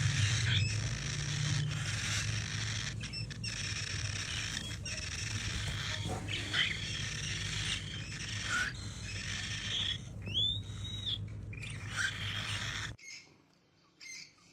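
Parrot chirping in short calls, with one whistle that rises and then falls, over a steady hum and hiss and a few clicks. The background cuts off suddenly near the end.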